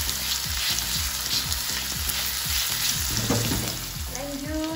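Diced ham and ground chili-shallot-garlic paste sizzling in a hot wok while a silicone spatula stirs it, with repeated stirring strokes about twice a second. A short tune comes in near the end.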